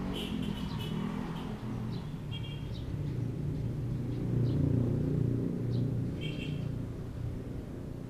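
Small birds chirping, short high calls near the start, about two and a half seconds in and about six seconds in, over a low rumble that swells about halfway through and then fades.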